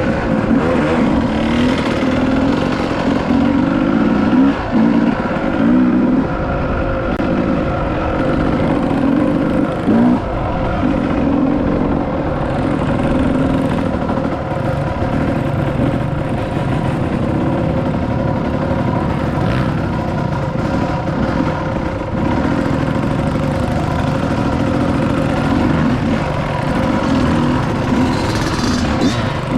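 Dirt bike engine running while riding, its revs rising and falling throughout.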